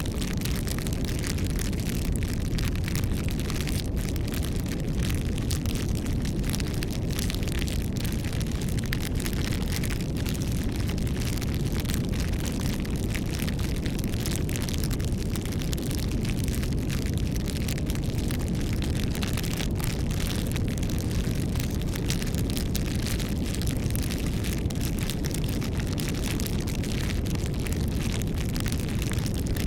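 Wood campfire burning: a steady low rumble of flames with many small, irregular crackles and pops.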